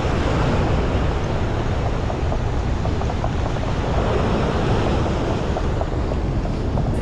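Waves breaking on a surf beach, with wind buffeting the microphone: a steady rushing noise that swells slightly now and then.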